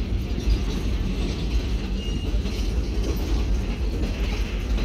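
Passenger rail car rolling along the track: a steady low rumble with faint scattered clicks and rattles from the car.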